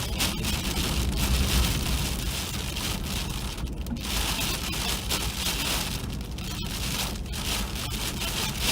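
Freezing rain mixed with ice pellets, a steady dense crackle of many small hits, with a low steady rumble underneath.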